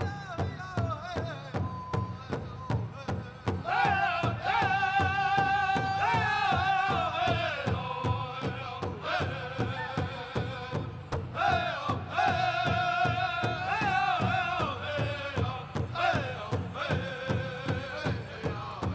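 Pow wow drum group: singers in high, falling phrases over an even beat on a large bass drum, about two and a half beats a second.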